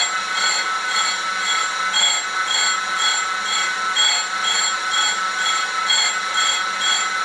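Grinding wheel grinding a punch held in a spin jig as the table traverses under power feed: a steady, high-pitched grinding squeal that pulses about twice a second.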